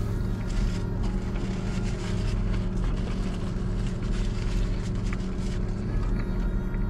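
Car engine idling steadily, heard from inside the cabin, with small clicks and rustles of chewing and handling food over it.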